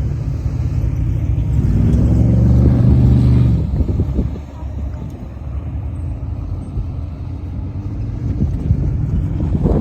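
Off-road vehicle engine running on a trail. It pulls harder and louder for a couple of seconds about two seconds in, then eases back to steadier, quieter running.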